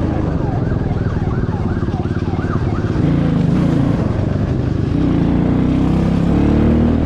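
Police siren in a fast yelp, about three quick rising-and-falling wails a second, over a motorcycle engine running. The siren stops about three seconds in and the engine carries on, slightly louder.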